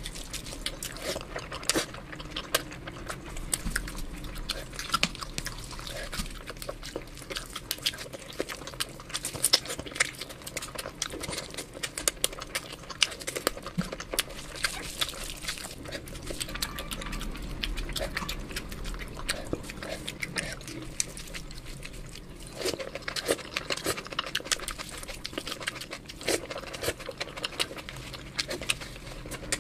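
Close-miked eating sounds of chicken biryani taken by hand: wet chewing and lip smacking in a rapid, irregular run of small clicks and squelches.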